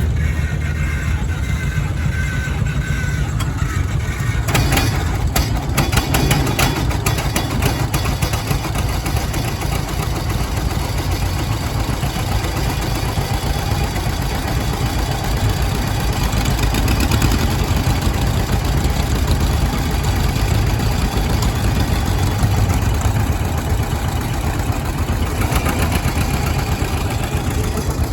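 An engine running steadily at low speed, with a rapid run of sharp knocks about five to seven seconds in.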